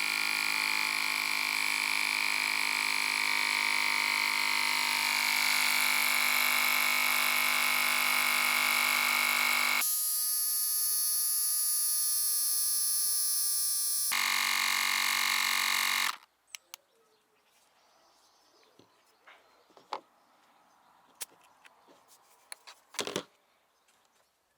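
Small electric air compressor running steadily with a buzzing hum as it pumps an IK foam pump-sprayer up to about 35 psi; its tone changes for about four seconds in the middle, and it cuts off suddenly about sixteen seconds in. Faint clicks and one short knock follow near the end.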